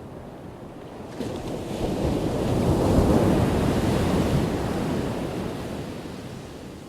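A single ocean wave crashing: the surf rises suddenly about a second in, is loudest around three seconds, then washes out and fades away, over a quieter steady wash of sea.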